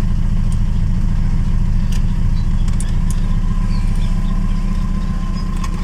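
VAZ 2104 engine idling steadily, a continuous low rumble with a few light clicks.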